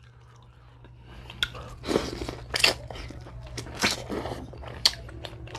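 Close-up biting and chewing of corn on the cob in a seafood boil: irregular crunchy bites and wet mouth smacks that start about a second and a half in. A steady low hum runs underneath.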